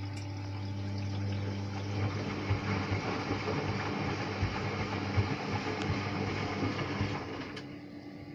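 Hotpoint Ariston Mix 15 washing machine's water pump humming steadily with water running through it. About two seconds in it turns to an uneven gurgling rattle, then the pump and water stop around seven seconds in.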